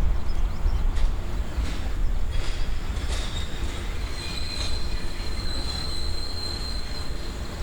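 Tobu 350 series electric express train running past on the rails, its wheels clicking regularly over rail joints over a low rumble. About halfway through, a high steady wheel squeal sets in.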